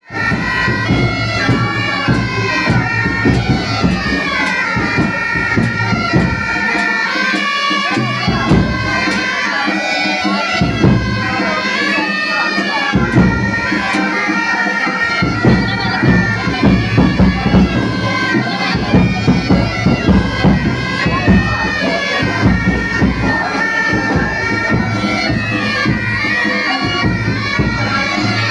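Loud traditional festive music: a shrill reed pipe plays a wandering melody over a beating drum, and the drum drops out briefly a few times.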